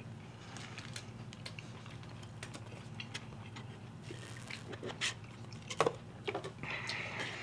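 Quiet eating sounds: chewing chicken nuggets and small clicks from handling the cardboard nugget boxes, with a brief sip through a drinking straw about four seconds in.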